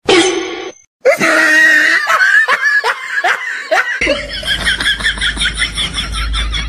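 A person laughing in a rapid run of short falling 'ha' sounds, about three a second. About four seconds in, this gives way to a quicker, even run of short pulses over a low hum.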